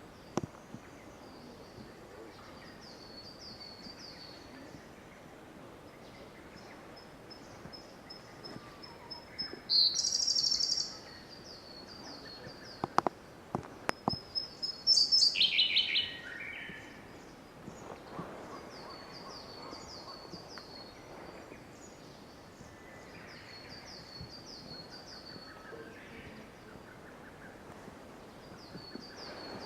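Siberian blue robin singing. Twice it gives a few thin, high introductory notes followed by a loud, fast trill, the second trill stepping down in pitch. Another bird repeats a short, faint, high phrase every few seconds, and a few sharp clicks fall between the two songs.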